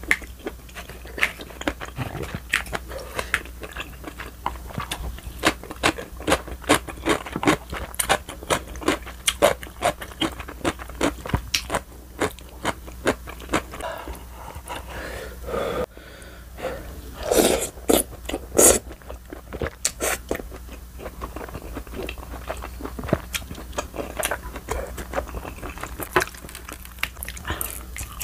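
Close-miked eating sounds: wet chewing with many short mouth clicks and smacks, and a few louder ones about two-thirds of the way through. Near the end comes a bite into crispy guobaorou.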